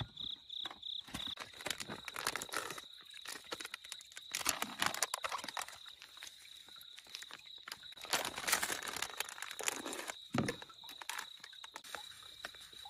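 Crinkling and rustling of a bait bag and dry fishing bait being handled as groundbait is mixed, in irregular bursts of crackle and clicks, over a steady high insect trill.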